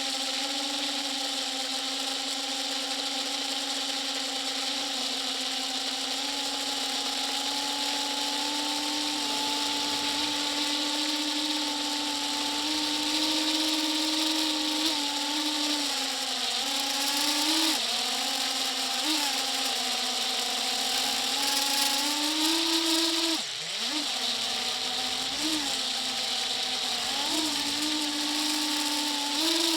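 A small motor running with a steady hum over a hiss. Its pitch briefly rises several times in the second half and drops sharply once near the end.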